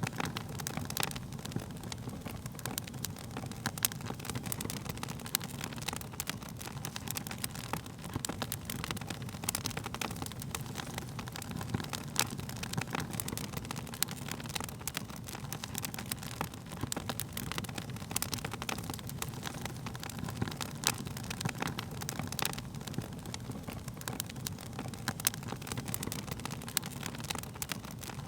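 Wood fire burning: a steady low rumble of flames with frequent sharp crackles and pops from the burning wood, scattered irregularly throughout.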